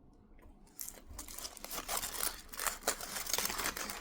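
A Reese's peanut butter heart's candy wrapper crinkling and tearing as it is handled. The dense crackling starts about a second in and runs on with many sharp crackles.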